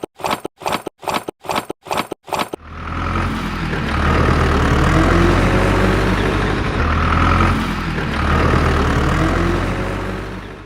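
An engine: about nine short, evenly spaced bursts, roughly three a second, then a steady running sound from about two and a half seconds in that swells and eases a little and cuts off suddenly near the end.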